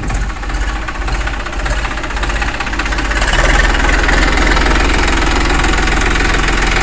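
Eicher 480 tractor's diesel engine running with a steady, even firing pulse, getting louder about three seconds in.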